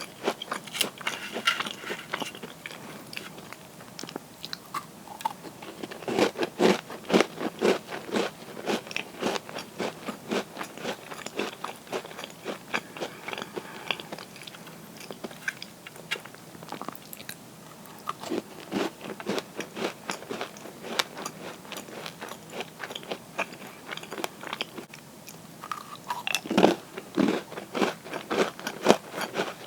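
Crisp cookies crunching as they are bitten and chewed close to the microphone, with louder runs of sharp crunches about six seconds in and again near the end.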